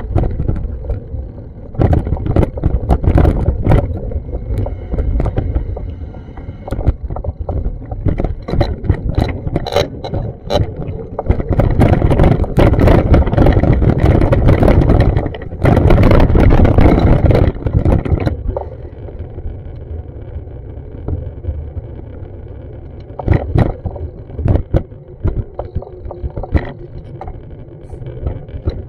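Wind buffeting an action camera's microphone in uneven gusts, a heavy low rumble that is loudest in the middle and eases off later. Scattered sharp knocks and clicks run through it.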